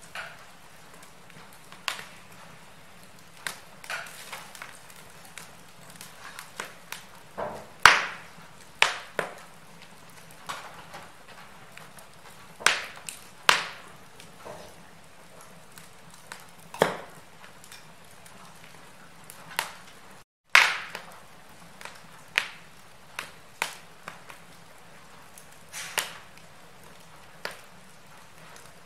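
Wood fire crackling in a fireplace: irregular sharp pops and snaps over a soft steady hiss, with a few louder cracks and a brief cut to silence about twenty seconds in.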